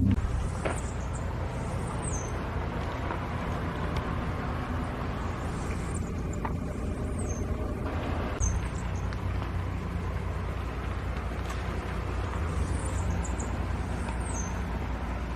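Car engine running at a steady idle with a low rumble. Faint, short, high-pitched chirps recur over it every few seconds.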